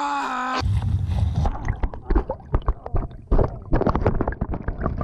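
A voice holds a cry for just under a second. Then comes a fast, irregular run of splashing and thrashing in water that goes on to the end.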